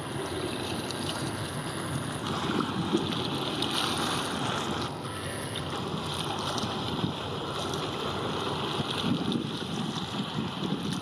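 Wind buffeting the microphone over the wash of open water, a steady rough rumble with small irregular gusts.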